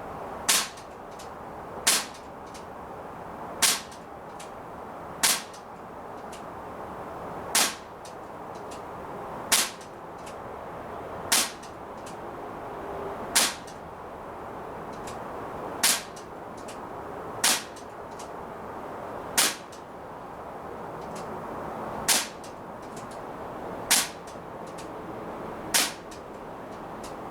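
Umarex XBG CO2-powered BB pistol firing shot after shot at a steady pace: about fourteen sharp cracks, one every one and a half to two and a half seconds, with fainter clicks between them.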